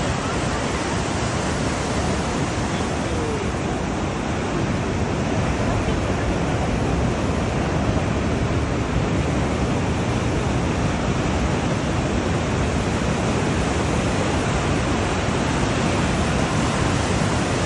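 Steady rush of Atlantic Ocean surf breaking on the shore, a continuous even noise with no distinct separate waves.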